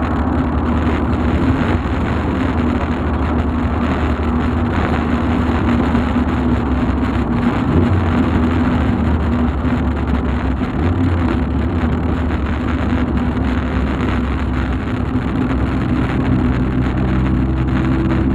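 Volkswagen Golf Mk2 on the move: steady engine and road noise, with the engine note changing about three quarters of the way through.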